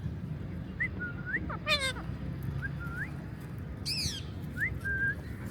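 Pet green parrot calling: a string of short rising whistles, broken twice by a harsh, wavering squawk.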